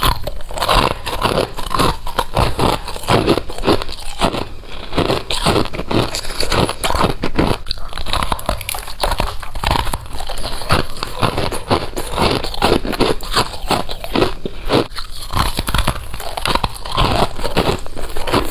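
Someone biting and chewing colored humidifier frost, a dense run of crisp crunches close to the microphone.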